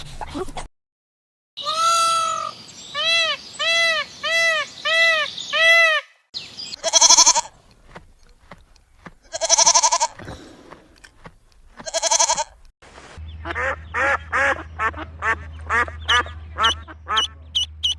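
A series of animal calls in three parts: first a run of about eight evenly spaced calls, then three loud separate calls, then a rapid string of short calls over a low steady hum.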